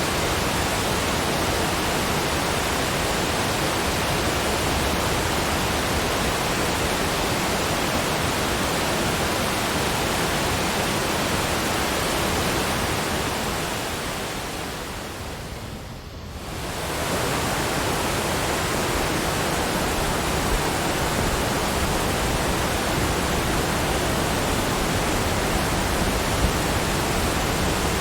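Steady, even rushing noise of a nature-sounds ambience track. About 12 seconds in it fades down to a brief dip and comes back up to the same level.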